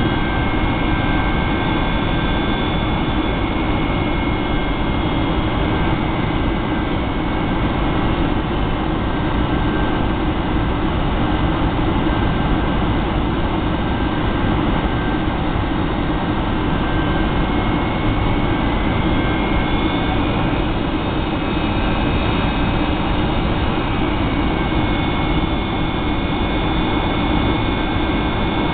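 Steady cabin noise inside a Boeing 757-200 in flight toward landing: an even rush of engine and airflow with faint high engine whine tones that shift slightly in pitch about two-thirds of the way through.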